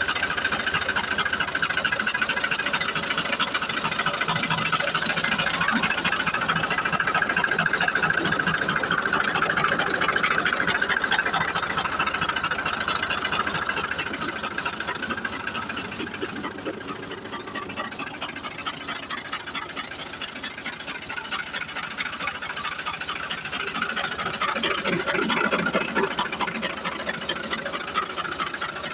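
Tractor diesel engine running steadily. It is louder for the first half, eases off in the middle and picks up again near the end.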